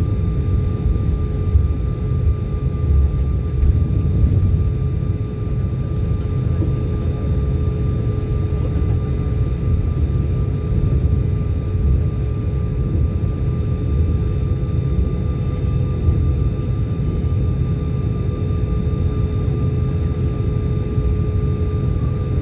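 Steady low rumble of an airliner's engines, with two faint steady tones above it, unchanging throughout.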